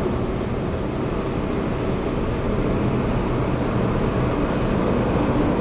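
MTR Island line metro train running through a tunnel, heard from inside the car: a steady rumble of wheels and running gear that grows slightly louder.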